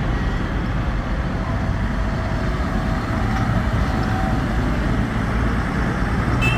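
Tractor engines running steadily as the tractors travel along the road, a continuous low rumble with road noise.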